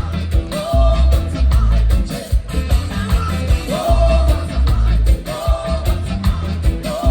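Live reggae band playing, heavy bass and drums, with a voice singing held phrases over it.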